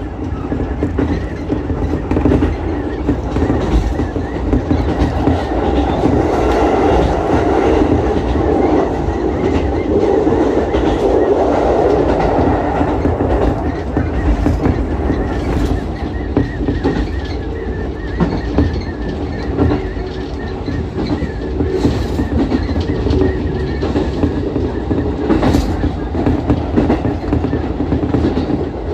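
Ichibata Electric Railway 7000-series electric train running along the line: a steady rumble of wheels and running gear, louder for a stretch early on, with occasional sharp clicks of the wheels over rail joints.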